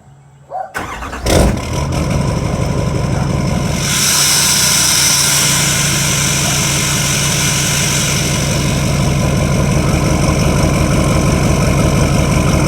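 Truck engine started about a second in, catching at once, then idling steadily as it warms up from a cold start. A steady hiss comes up over the engine about four seconds in.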